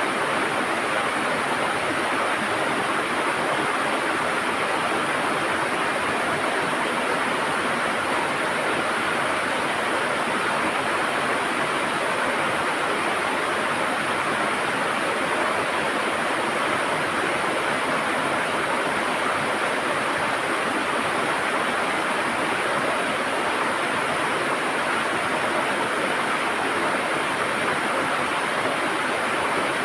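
River water flowing and gurgling: a steady, even rush.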